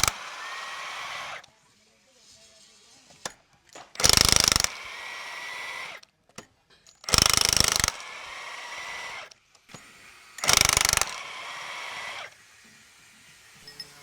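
A power tool on engine-restoration work, run in short bursts about three seconds apart. Each burst is followed by a quieter whir of about a second and a half as it runs down.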